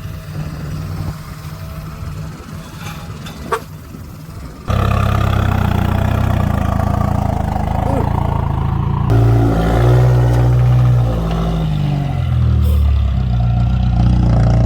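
Loaded dump truck's diesel engine and loud exhaust as the heavy truck pulls away. It is quieter at first, then suddenly much louder about five seconds in, and from about nine seconds the engine note rises and falls as it revs.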